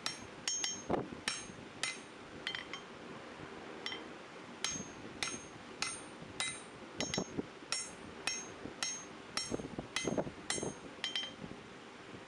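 Blacksmith's hammer striking a steel bar on an anvil, about two blows a second, each blow ringing, with a short pause about three seconds in.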